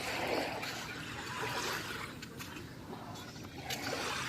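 Small waves washing up onto a sandy beach: a hiss of water that swells at the start and again near the end.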